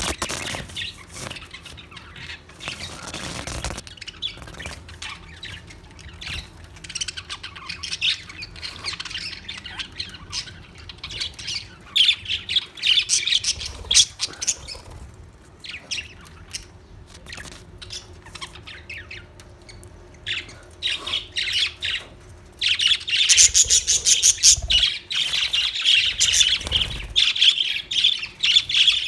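Budgerigars chirping and chattering in short, sharp calls, with a louder stretch of rapid chirping in the last few seconds.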